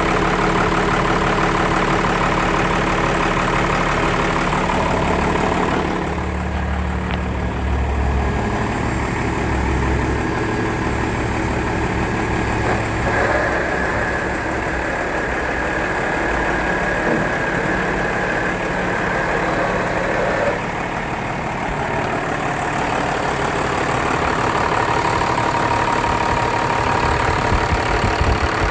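Cummins QSB 8.3-litre diesel engine in a 2004 Ottawa Model 30 yard tractor, running steadily at idle. Its note changes a little in character about a fifth of the way in and again past two-thirds.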